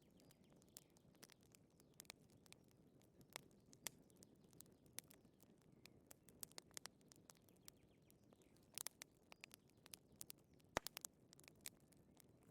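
Faint wood fire crackling: irregular sharp snaps and pops over a soft low rumble, with a quick cluster of snaps about nine seconds in and a louder pop near eleven seconds.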